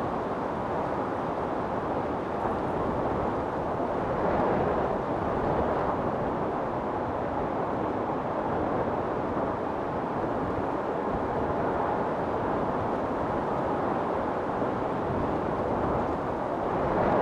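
Wind storm: a steady rush of strong wind that swells in gusts about four seconds in and again near the end.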